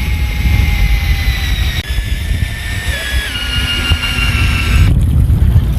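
Strong wind rumbling on the microphone aboard a fishing boat at sea, over a steady mechanical whine that drops in pitch in two steps a little past halfway.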